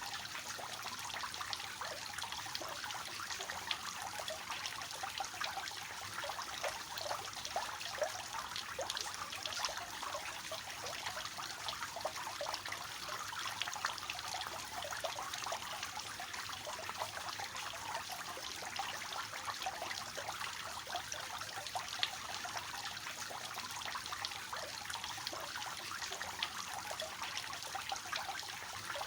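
Water falling and splashing steadily from a three-tiered cascade fountain, a continuous patter of small splashes.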